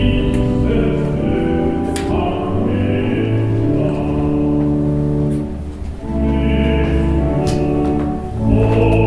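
Choir singing slow, sustained chords in a church, the held notes changing every second or two over a deep bass.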